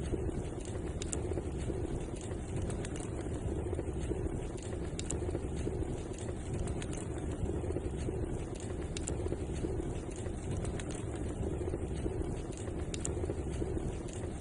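Wood fire burning in a fireplace: a steady low roar with scattered sharp crackles and pops at irregular moments.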